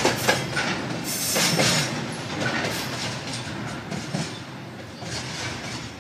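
Freight train of container flatcars rolling past, wheels knocking over the rail joints. It grows steadily fainter as the last wagons go by and the train moves away.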